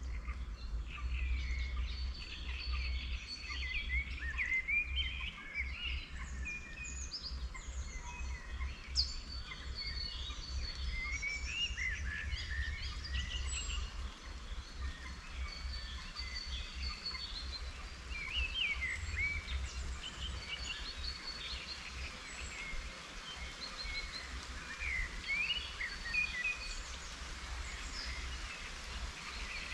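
Several wild songbirds chirping and singing in overlapping short phrases and trills, over a soft even hiss of light rain and a fluctuating low rumble.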